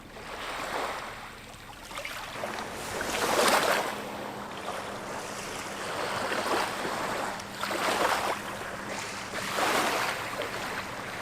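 Water washing and splashing in repeated surges, one every one to three seconds, the loudest about three and a half seconds in.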